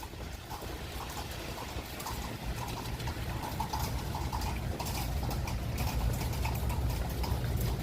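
Rain falling with wind rumbling on the microphone: a steady hiss of rain with scattered sharp drop patter over a low wind rumble, slowly growing louder.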